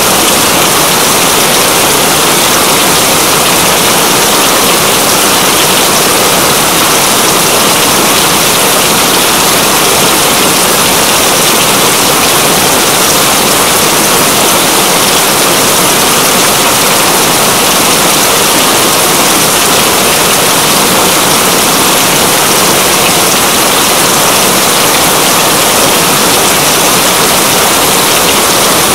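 Steady, dense rain, an even hiss with no change in level.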